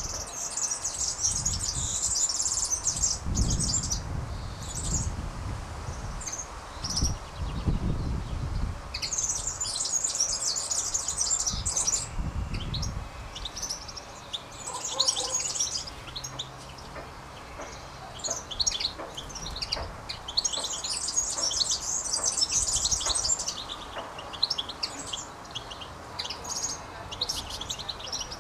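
Small songbirds singing and chirping, in repeated bouts of rapid high-pitched twittering a few seconds long, with short chirps between, over a low rumble of wind or handling noise.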